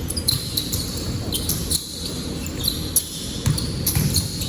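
Basketball being dribbled on a hardwood court, with short high squeaks of sneakers and voices echoing in a large hall.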